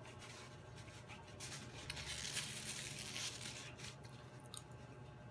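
Faint close-miked chewing and mouth sounds from a mouthful of food, louder and more crackly from about a second and a half to four seconds in.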